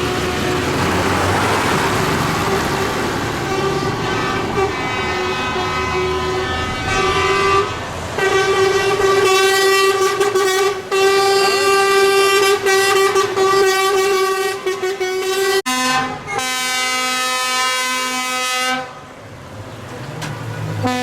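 Vehicle horns sounding in long held blasts over the rumble of passing tractor engines: one steady horn note for about fifteen seconds, then a lower horn note for about three seconds.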